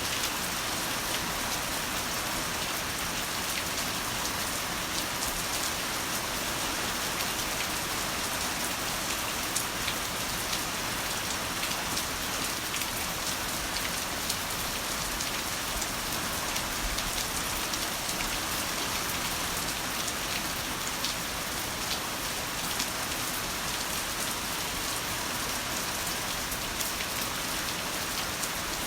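Heavy rain falling steadily: a dense, even hiss with scattered sharp drop hits and no thunder.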